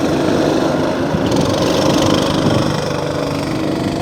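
Go-kart engines running steadily.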